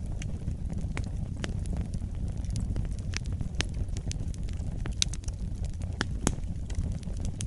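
Wood fire burning in a fireplace: a steady low rumble of flames with irregular sharp crackles and pops, one or two a second.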